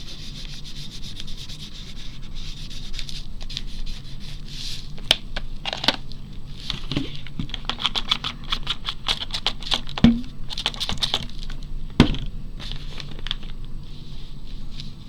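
Watercolour crayon scribbled back and forth across paper: a dense run of short, rapid strokes, with two sharp knocks about two seconds apart near the middle.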